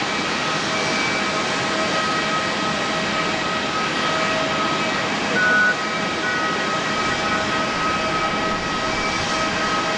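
Jet engines of a Boeing 747-8, four GEnx-2B turbofans, running steadily with a constant whine over a broad rush of noise. A brief louder tone sounds about five and a half seconds in.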